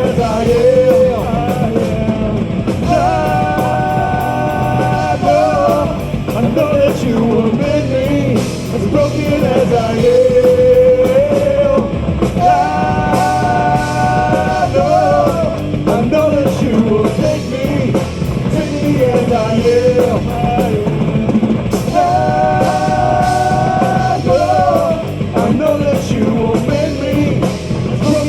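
Live metalcore band playing loud, with distorted guitars, drums and cymbals. A held melodic phrase comes back about every nine seconds over the heavy riffing.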